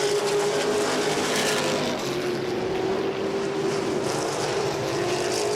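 Modified race cars' engines running at speed on a short oval track, a steady drone that holds roughly the same pitch throughout.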